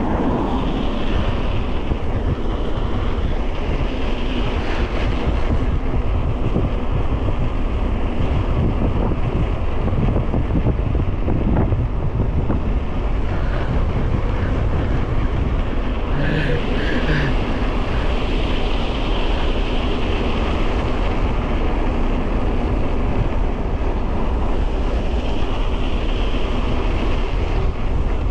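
Steady, loud wind buffeting the microphone of a camera carried on a bicycle speeding downhill.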